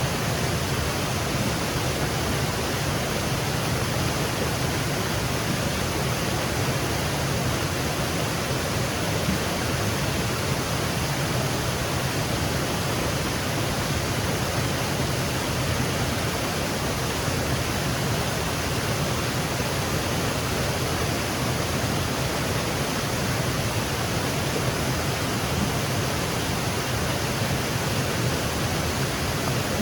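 Small woodland waterfall cascading steadily, a constant rushing of water with a low rumble underneath.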